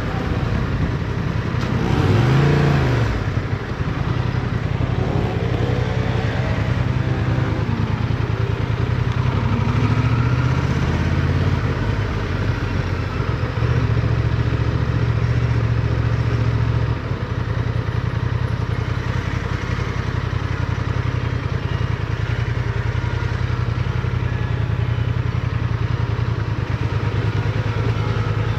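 Motorcycle engine heard from on board. It speeds up and slows down several times in the first ten seconds, pulls at higher revs for a few seconds, drops sharply about seventeen seconds in, then runs steadily.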